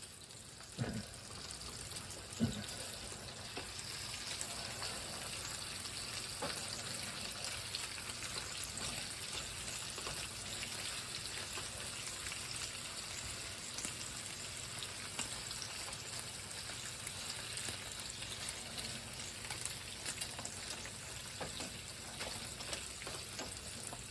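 Bacon sizzling in a frying pan: a steady hiss with many small scattered pops. A couple of light knocks in the first few seconds.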